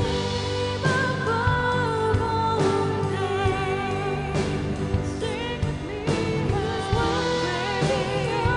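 Worship band playing with a singer holding long notes over drums and steady chords.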